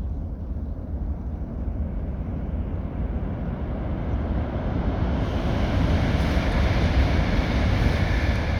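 Shinkansen Rail Star train running, a deep rushing rumble that builds steadily louder, with a rising hiss joining about five seconds in.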